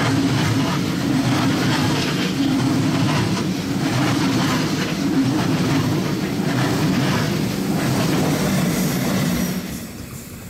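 Train running on the Semmering railway: a steady rumble with the rhythmic clickety-clack of wheels over rail joints. The sound falls away sharply near the end.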